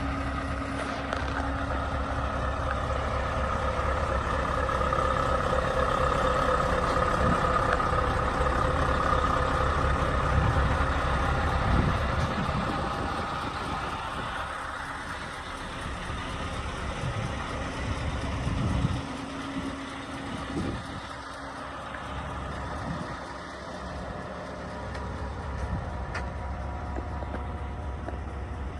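Scania S730 truck's 16.4-litre V8 diesel engine running steadily. It is louder for the first dozen seconds and then quieter, with a single sharp knock about nineteen seconds in.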